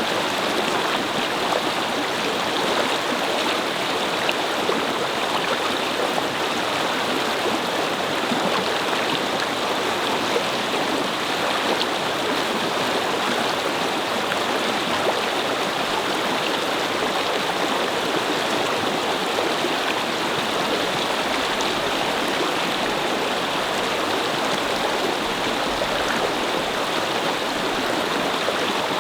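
A brook babbling over stones, with a steady rush of flowing water.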